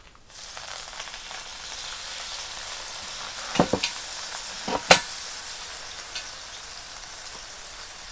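Steady sizzling hiss of hot cooking liquid as a pot of maqluba, a rice and chicken stew, is turned over onto its lid. Sharp metal knocks come about three and a half and five seconds in, the last the loudest.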